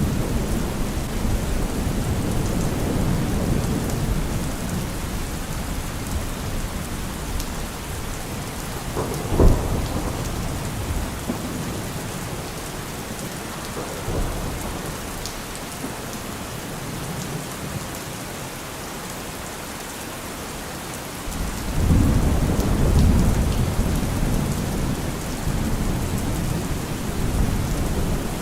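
Steady rain falling with rolling thunder: low rumbling that eases off, a single sharp thunderclap about a third of the way in, then a fresh rumble building about three quarters through.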